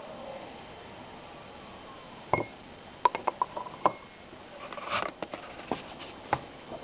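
Glassware being handled: a knock, then a quick run of sharp clinks and a few single clinks later.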